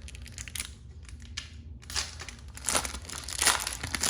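Foil wrapper of a Pokémon card booster pack being torn open and crinkled by hand, a run of short rustles that are loudest about three seconds in.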